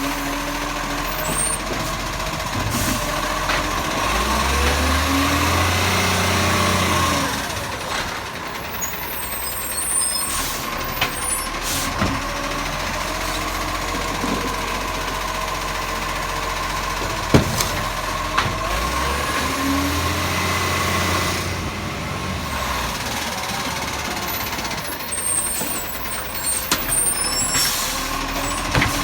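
Recycling truck with a Bucher body running at the kerb. Its engine revs up and holds twice for a few seconds, as for a bin-lift cycle. Clanks and air-brake hisses sound in between, with a sharp bang about two-thirds of the way through.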